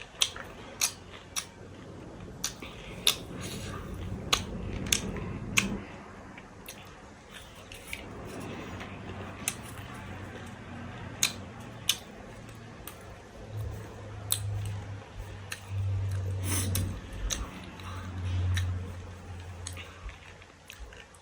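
Close-miked eating of chatpate, a crunchy spicy puffed-rice snack: irregular sharp crunches and mouth clicks while chewing. A low hum comes and goes in the second half.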